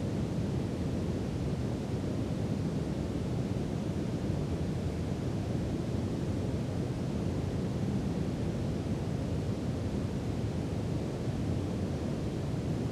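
Steady brown noise: an even, deep hiss that is strongest in the low end and thin in the treble, with no change in level.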